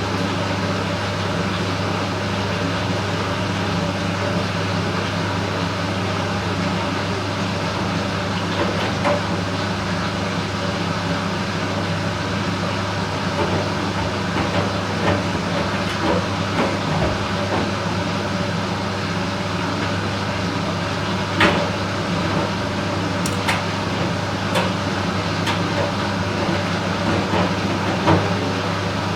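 Candy Smart Inverter front-loading washing machine running a cycle: a steady low hum from the inverter motor and drum, with scattered light clicks and knocks that become more frequent in the second half, one sharper knock about two-thirds of the way in.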